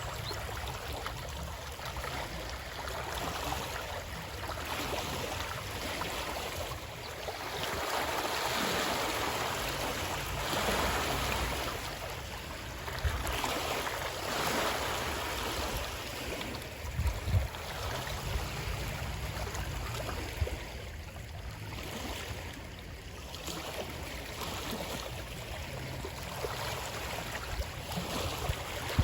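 Natural running water, a continuous rushing wash that swells and eases every few seconds, with a couple of brief low thumps in the middle.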